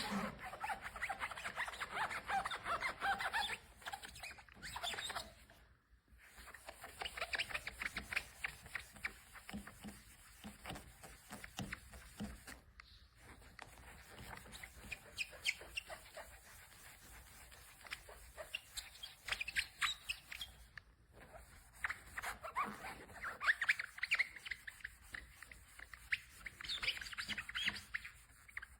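Foam applicator sponge rubbing scratch-repair compound over car paint, in spells of quick, squeaky scrubbing strokes with short pauses between them.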